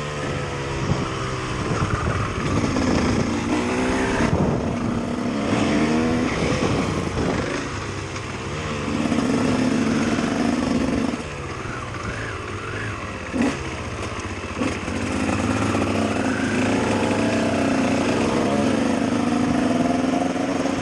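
Single-cylinder KTM EXC dirt bike engine revving and running, its pitch repeatedly rising and falling, with a couple of longer held stretches at higher revs and one short sharp knock a little past halfway.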